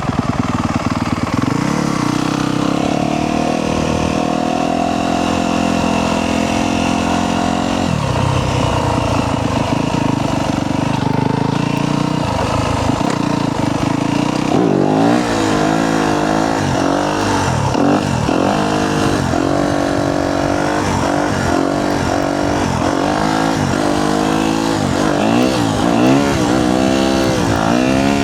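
Yamaha YZ250F dirt bike's single-cylinder four-stroke engine running. Its pitch holds fairly steady for the first half, then rises and falls again and again, about once a second, as the throttle is opened and shut repeatedly.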